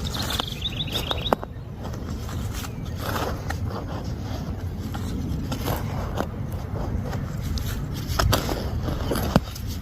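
Scraping and knocking of digging in garden soil, with sharp clicks scattered through it. A bird gives a short, rapid trill near the start.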